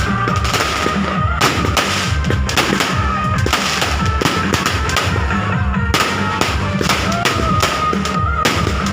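Fireworks and firecrackers going off, many sharp bangs in quick succession, with music playing alongside.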